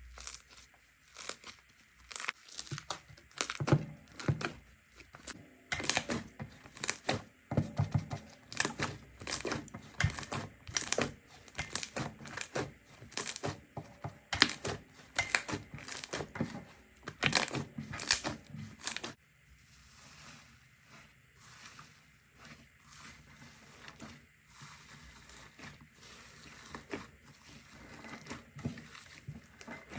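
Slime being squished and stretched, with a dense run of sharp pops and clicks. About nineteen seconds in it turns quieter, to a finer crackle.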